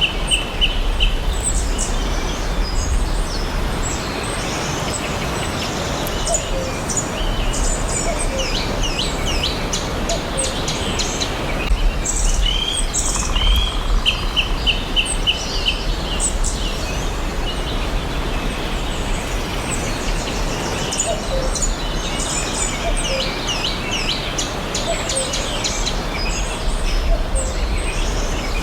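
Several songbirds chirping and singing, short high calls and rapid trills overlapping throughout, over a steady background hiss.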